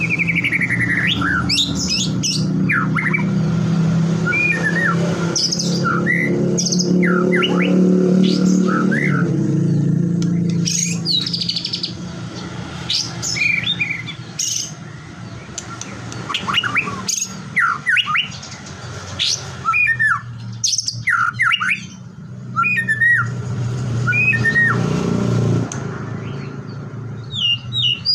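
White-rumped shama (murai batu) singing, a fast varied run of clear whistles, sweeping slurred notes and short harsh chattering phrases. A low steady hum runs underneath for the first ten seconds or so and again near the end.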